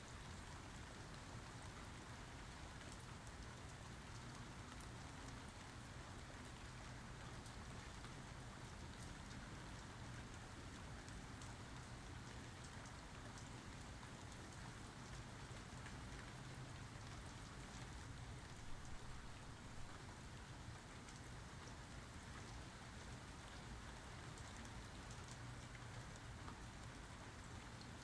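Steady rain falling, a soft even hiss with individual drops ticking on a surface. About two-thirds of the way through there is one brief louder knock.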